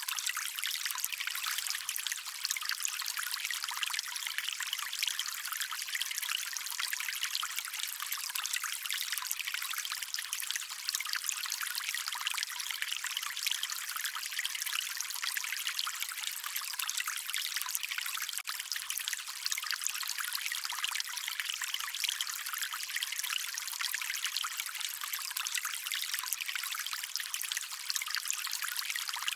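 Shallow stream water trickling and babbling, a steady high, splashy rush with no deep tones.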